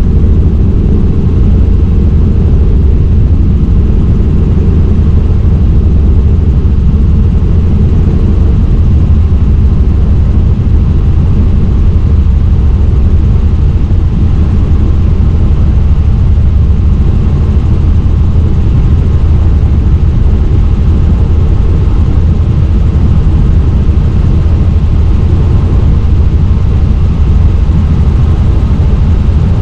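Helicopter in flight: a steady, loud drone of rotor and engine, heaviest in the low end, with no change in pitch or level.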